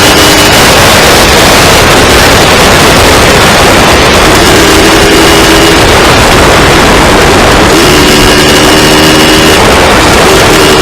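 Two-stroke dirt bike engine running loud while being ridden, its pitch coming and going with the throttle, over a steady rushing noise.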